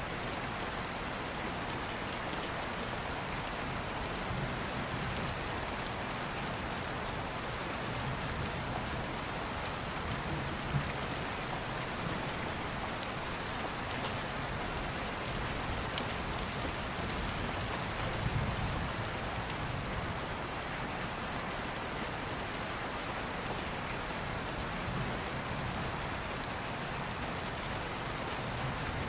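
Steady rain pattering, with a few short sharp clicks standing out now and then.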